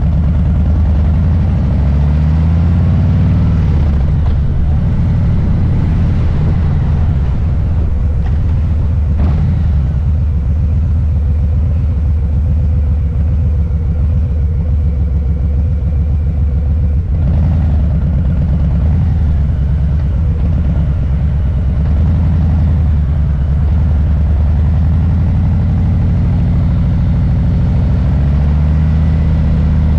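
Harley-Davidson Low Rider S's Milwaukee-Eight V-twin engine rumbling under way. Its pitch rises and falls with the throttle near the start and again near the end, and holds steadier in between.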